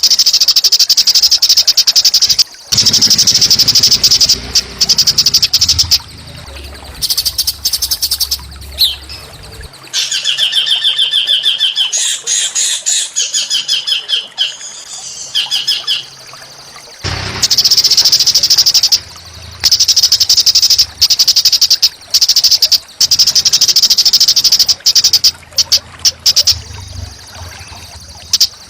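Small songbirds singing loud, rapid, harsh trilling phrases, with a stretch of clearer, stepped whistled notes in the middle. It is a masteran recording of rough, dense small-bird song used to train and provoke caged songbirds such as the white-rumped shama to sing.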